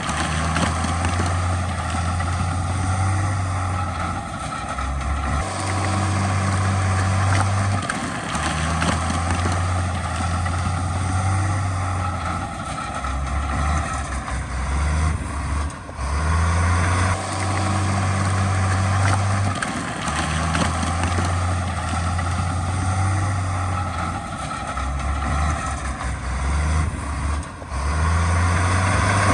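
Heavy diesel earthmoving machinery running, its low rumble swelling and easing every few seconds as the engine works under varying load.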